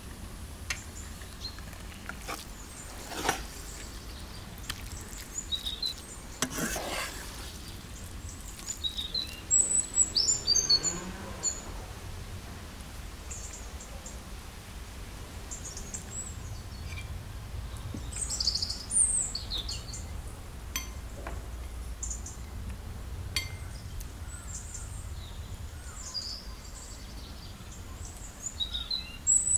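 Small birds chirping and calling on and off, loudest about ten seconds in and again near twenty seconds, over a steady low background rumble. There are two sharp clicks in the first seven seconds.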